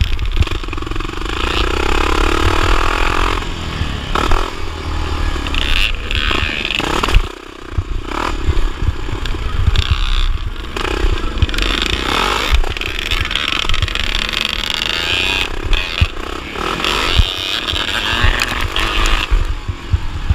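1979 Honda XR500's single-cylinder four-stroke engine under race load, its revs rising and falling, with a brief drop in power about seven seconds in.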